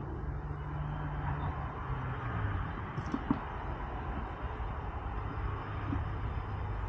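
Steady low hum and background noise, with a single sharp click a little over three seconds in.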